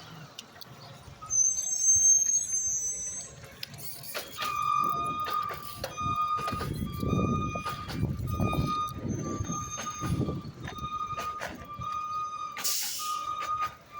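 Garbage truck's reversing alarm beeping about once a second while its diesel engine revs in surges underneath. A brief high squeal comes a second or two before the beeping starts.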